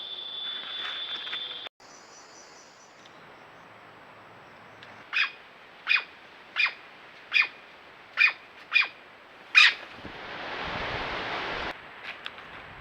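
A series of seven short, sharp animal calls, evenly spaced about two-thirds of a second apart, followed by about a second and a half of rushing noise.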